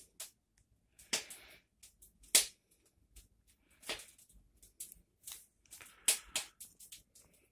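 Wood fire crackling in a fireplace: irregular sharp pops, a couple of them much louder.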